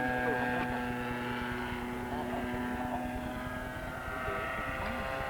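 Radio-controlled model airplane engine running steadily, its pitch drifting slightly as the model flies.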